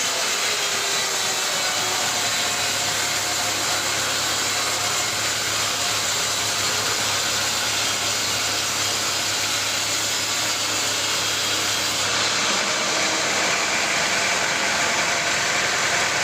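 Sawmill machinery running steadily. A low hum comes in about two seconds in and drops out about four seconds before the end.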